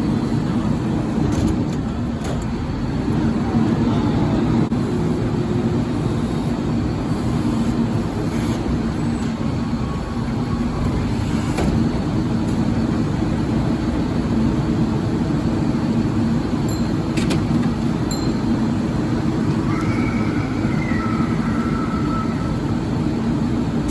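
Garbage truck with a Leach rear-loader body, its engine running steadily, with a short high squeal about three-quarters of the way through.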